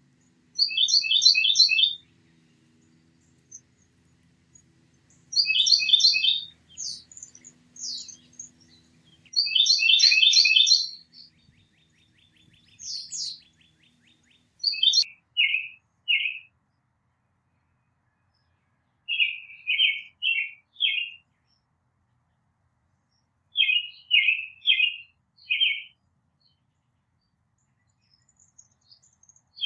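Songbirds singing. Loud phrases of quick repeated high notes come about one, five and nine seconds in, then from about the middle on, shorter groups of three or four lower notes, with a faint low hum in the first half.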